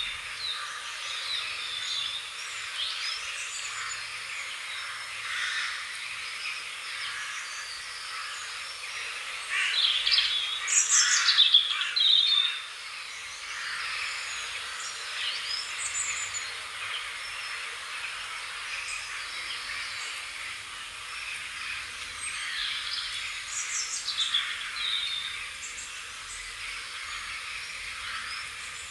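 Several birds chirping and singing in a steady chorus of short calls, with a louder burst of song about ten seconds in.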